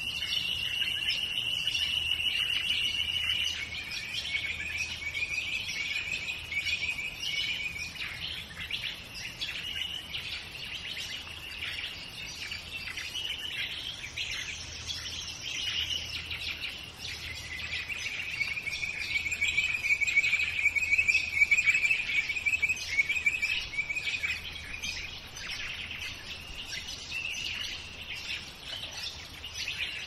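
Dawn chorus of many birds singing and calling at once, with several voices overlapping. Long, rapid trilled phrases stand out near the start and again in the second half.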